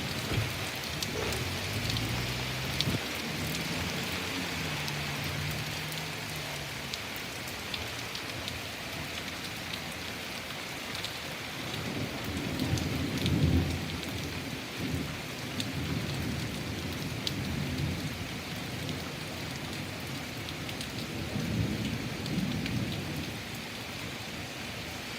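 Steady rain falling on hard surfaces, with rolls of thunder rumbling, the strongest about halfway through and another near the end. A low steady hum sounds under the rain in the first few seconds.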